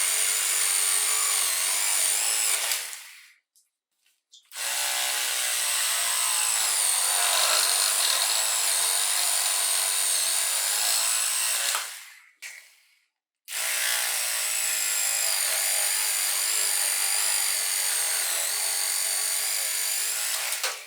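Black & Decker CHS6000 cordless reciprocating hand saw running in three long bursts, about three, seven and seven seconds long, with short stops between. Its high whine wavers in pitch as it works, in keeping with cutting through wood.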